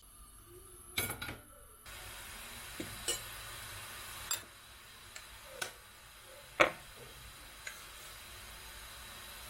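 Kitchen clatter: a handful of light knocks of dishes or utensils, the loudest about two-thirds of the way through, over a steady hiss that starts suddenly about two seconds in.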